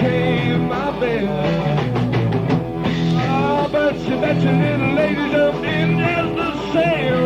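Live rock band playing a blues number: a lead line with bending notes over a steady bass and drums, with a few sharp drum strokes about two seconds in.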